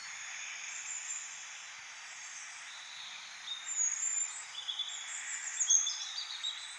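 Small birds chirping in short high notes and brief trills over a steady hiss. The calls grow busier from about halfway through.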